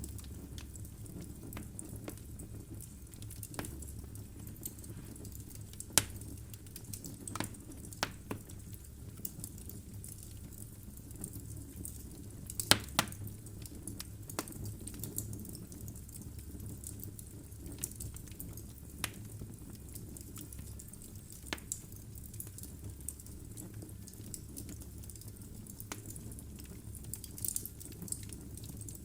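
Wood logs burning in a fireplace: a steady low rumble of flame with scattered sharp crackles and pops, two of them much louder, about six seconds in and near the middle.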